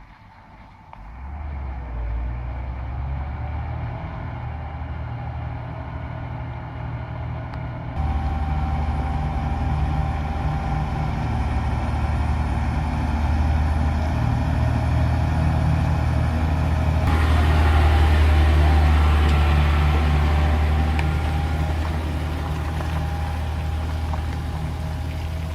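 Heavy truck engines running with a steady low rumble. The sound shifts abruptly about eight and seventeen seconds in, where one clip cuts to the next.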